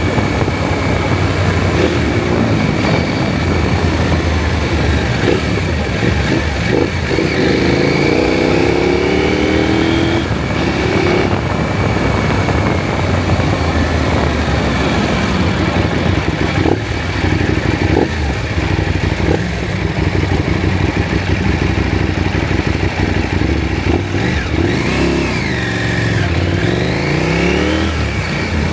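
KTM 790 Adventure's parallel-twin engine running under way, its note rising as it accelerates and dropping at gear changes a couple of times, over steady road noise.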